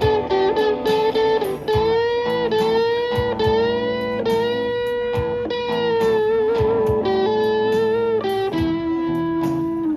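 Live band playing an instrumental break, a lead electric guitar holding long notes that bend and slide in pitch over the band's accompaniment, ending on one long held lower note.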